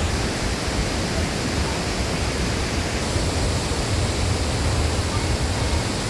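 Steady, loud rush of Tännforsen, a large waterfall, with a deep rumble underneath.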